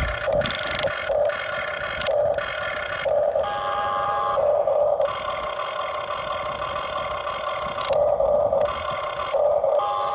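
Small electric motors of a Huina RC excavator whining in short on-off spells as the controls are worked, with a longer run in the middle and a few sharp clicks.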